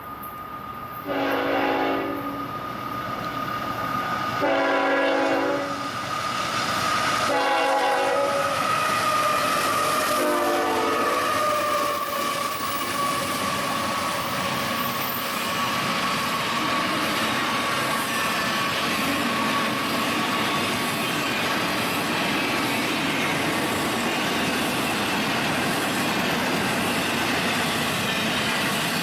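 Union Pacific freight locomotive horn blowing four blasts, the third one short, in the pattern of a grade-crossing warning. The train then passes with a steady loud rumble, its wheels clacking over the rail joints.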